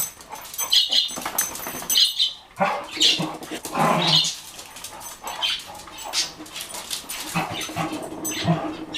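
A dog making short, irregular barking and whining sounds, mixed with birds fluttering their wings and chirping.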